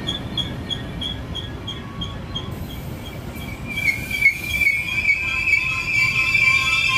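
Metra bilevel commuter train rolling past with a low rumble of wheels on rail, while a bell rings steadily about three times a second. From about three and a half seconds in, a high wheel squeal starts and grows louder.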